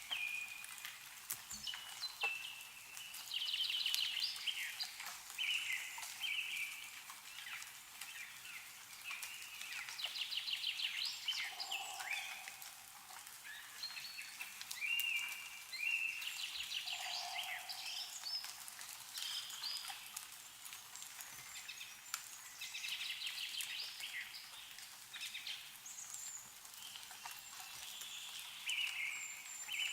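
Songbirds singing and calling, short trilled and chirping phrases recurring every second or two, with scattered sharp ticks of meltwater dripping from snowy trees.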